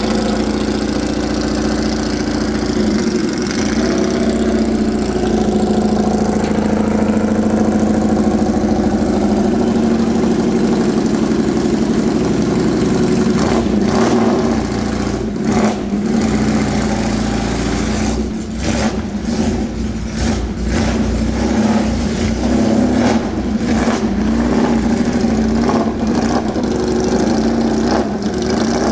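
Porsche 914-6's air-cooled flat-six race engine running through twin open exhaust pipes, idling steadily. From about halfway on come short throttle blips every second or two.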